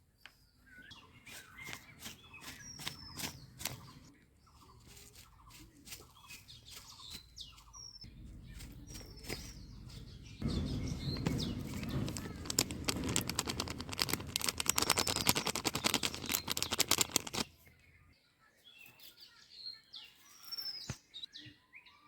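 Small birds chirping, with scattered clicks. From about halfway, several seconds of loud, dense crackling noise cover them, then stop suddenly.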